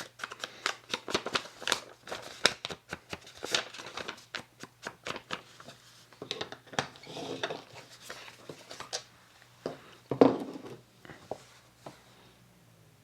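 Hands handling paper and craft supplies: rustling, shuffling, and a run of light taps and clicks, with one louder knock about ten seconds in.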